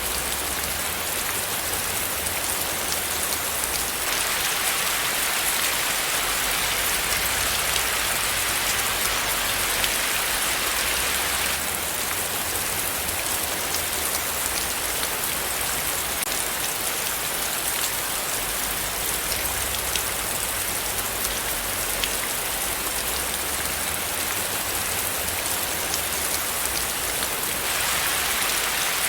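Steady rainfall: an even hiss of rain with many small drops ticking on a surface. The rain swells a little about four seconds in, eases again near the middle and swells once more near the end.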